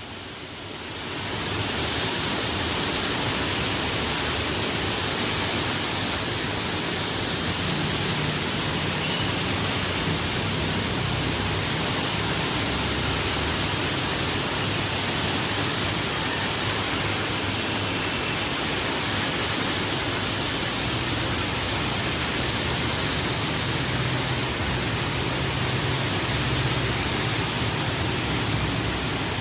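Heavy rain falling, a steady even wash of noise that swells up over the first second or two and then holds.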